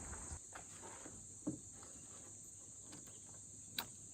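Insects chirring steadily at a high pitch, with a couple of faint knocks.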